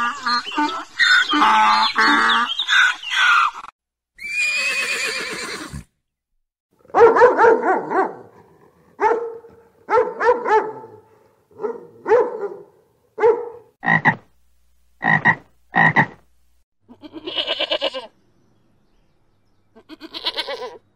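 A run of animal calls: a cluster of short calls, one longer harsh call, then short croaking calls repeated about once a second for several seconds, and two rattling calls near the end.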